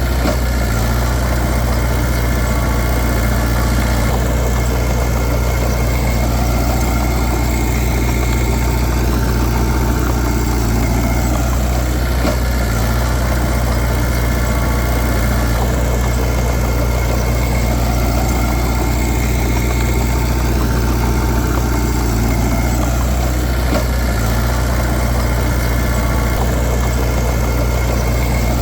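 Heavy diesel engine of earthmoving machinery running steadily at a low, even speed, with a deep hum and no revving.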